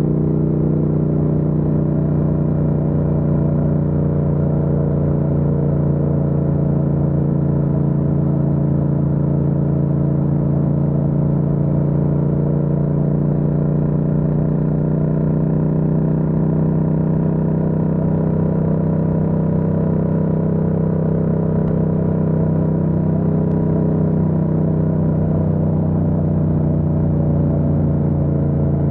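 Yamaha MT-07's parallel-twin engine running at a fairly steady speed under way, heard from on the bike, a loud even drone that holds its pitch, wavering slightly about two-thirds of the way through.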